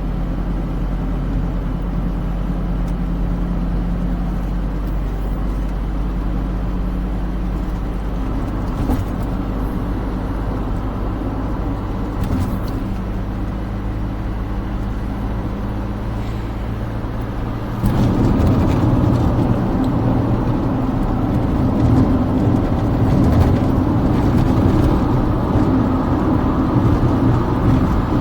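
Smart car driving along, with a steady low engine hum and road noise. About two-thirds of the way through, the noise steps up suddenly and becomes louder and rougher.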